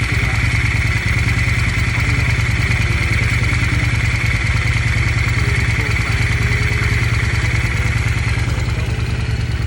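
Honda Steed 600 VLX's V-twin engine idling steadily, with a steady high hiss over it that fades out near the end.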